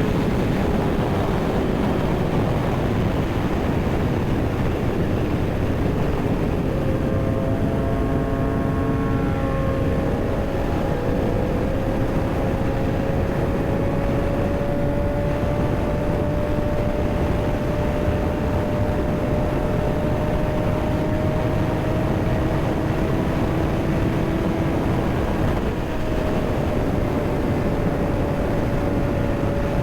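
Kawasaki ZX6R inline-four engine running at a steady cruise, its note climbing slowly and easing off a little near the end, under heavy wind rush on the rider's microphone.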